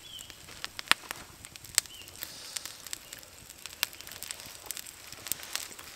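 Foraged elf cup mushrooms and greens sizzling in a pan over a campfire, with sharp pops and crackles at irregular intervals over a steady hiss.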